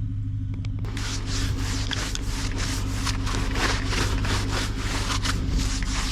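Rapid scraping strokes, about four a second, starting about a second in, as snow and ice are scraped off the car. They play over the steady idle of a BMW X5's twin-turbo V8 warming up in the cold.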